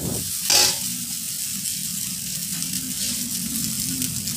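Fried rice sizzling steadily in a steel wok over a high flame, with one metal spatula scrape against the wok about half a second in.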